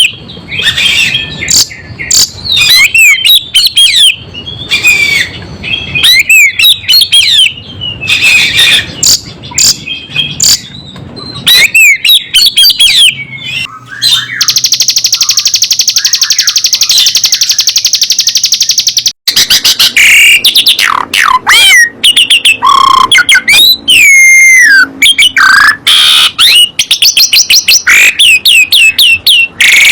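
Songbirds singing loudly: quick chirps and sweeping whistled phrases, broken by a long, fast, buzzy high trill from about halfway that stops abruptly, then more whistles and chirps.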